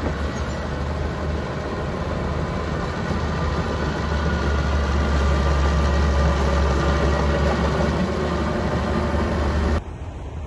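Small bulldozer's diesel engine running steadily with a deep hum, a little louder for a few seconds in the middle. Near the end the sound cuts off abruptly to a quieter hiss.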